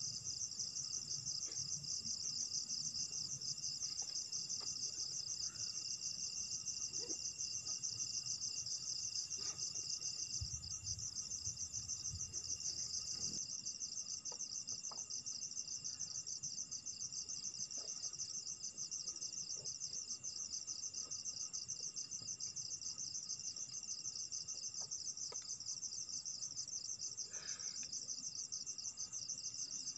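Continuous chorus of crickets trilling in a fast, even pulse, with other insects holding steady high tones underneath. A brief low rumble comes about ten seconds in, and there are a few faint clicks.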